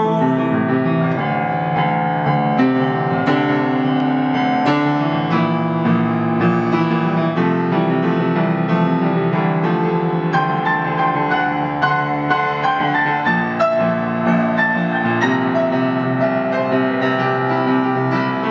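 Instrumental passage of a song with no singing, led by piano playing a steady run of chords and melody notes.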